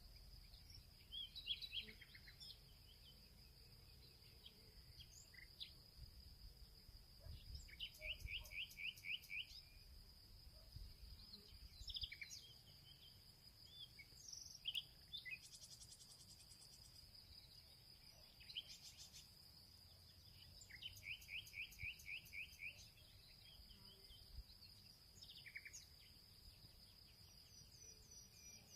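Faint birdsong: assorted songbird chirps and calls, with two quick trills of about eight rapid repeated notes, about eight seconds in and again about twenty-one seconds in. A steady high insect drone runs underneath.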